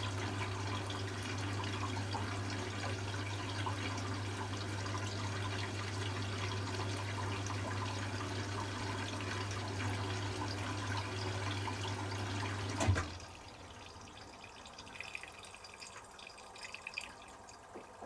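Hoover Classica 1100 washing machine filling with water for its final rinse: water rushing in through the inlet valve over a steady low hum. About 13 seconds in, the valve shuts with a click, the fill stops, and only faint water sounds remain.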